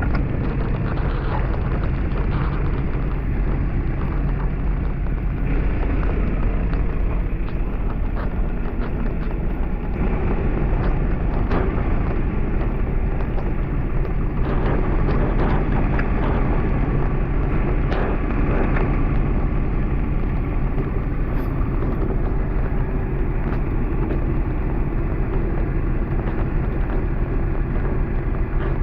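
Motor vehicle engine running at a steady speed, with wind noise over the microphone.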